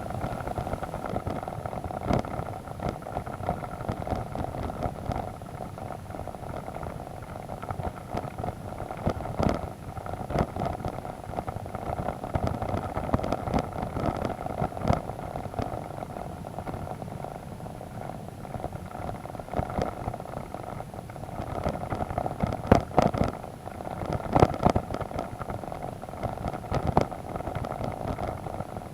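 BMW adventure motorcycle engine running steadily under way on a muddy dirt track, with scattered knocks and clatters from the bike jolting over ruts, thickest about two-thirds of the way in.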